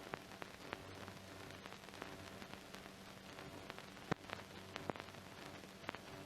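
Surface noise of an old 1930s film soundtrack: steady hiss with a faint hum and scattered sharp clicks and crackles, the loudest click about four seconds in.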